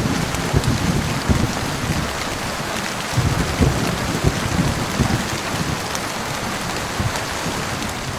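Heavy rain falling steadily, with low rumbles of thunder swelling in the first second and again about three to four seconds in.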